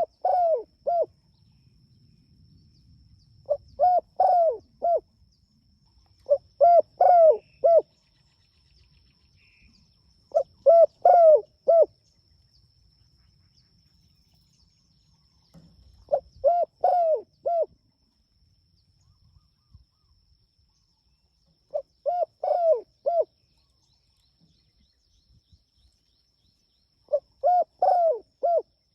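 Spotted dove (tekukur) cooing to call its companion: seven short phrases of about four low coos each, repeated every three to six seconds.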